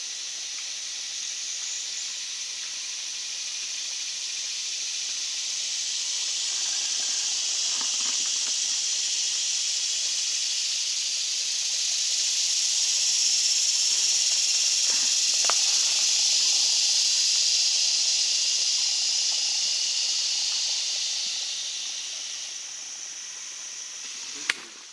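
A chorus of cicadas giving a high, steady buzzing drone that swells up, holds, and fades away near the end. A sharp click comes just before the end.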